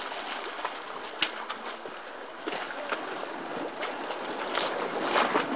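Choppy lake water washing and splashing against the edge of a paved quay: a steady wash with scattered sharper slaps, a few stronger ones near the end.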